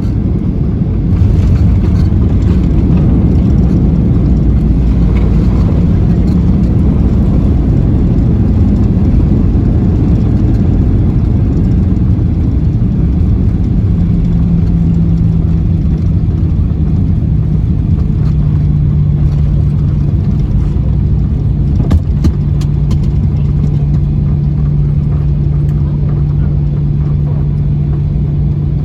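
Cabin sound of a Boeing 737-800 on its landing roll just after touchdown: a loud, steady rumble of its CFM56 engines and the wheels on the runway, which swells about a second in as the aircraft decelerates. A steady low hum comes in about halfway through, and there are a couple of brief knocks near three-quarters of the way.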